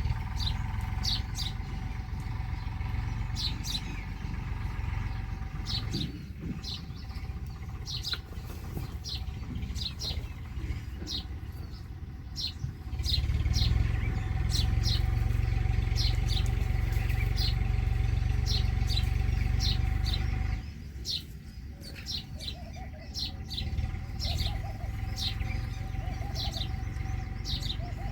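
Small birds chirping, short high notes repeating about once or twice a second, over a steady low rumble that grows louder for several seconds in the middle and then drops away suddenly.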